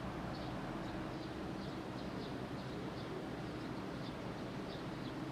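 Steady outdoor background noise with a low hum, and faint short high chirps repeating about twice a second, like small birds calling.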